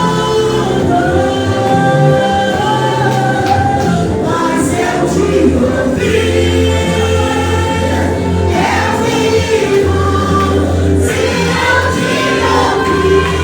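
Gospel vocal group singing together over instrumental backing with a steady low bass.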